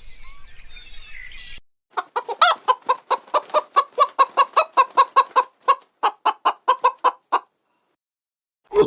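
Faint birdsong, then after an abrupt cut a chicken clucking in a quick, even run of about four clucks a second for some five seconds before it stops.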